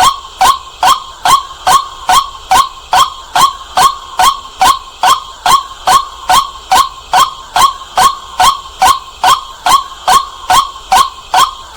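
White-breasted waterhen calling at night, a loud, clear, rapid run of short repeated 'kwak' notes at an even pace of about two and a half a second.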